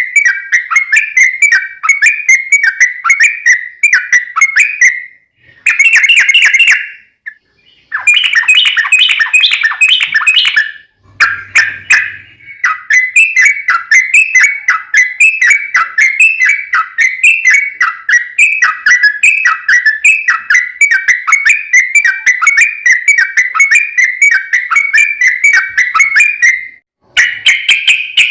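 Yellow-vented bulbul (trucukan) singing a long, loud run of repeated bubbly chirping phrases, broken by a few short pauses.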